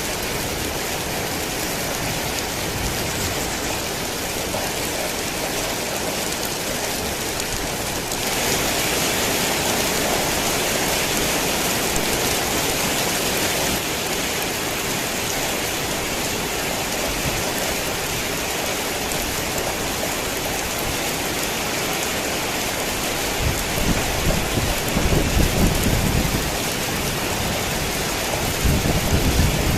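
Heavy rain falling steadily, growing louder and hissier about eight seconds in and easing back a few seconds later. Near the end, low rumbles of thunder come twice.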